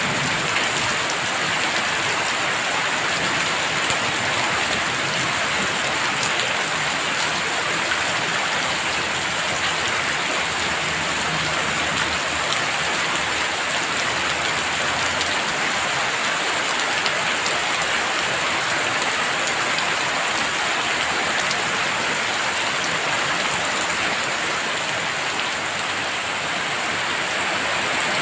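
Heavy rain falling steadily, a dense even hiss of drops with faint individual patters. A faint low rumble comes in briefly around the middle.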